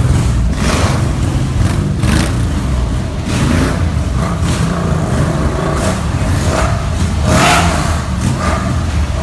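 A group of motorcycles riding out, their engines rumbling and revving in repeated surges as the bikes go by one after another.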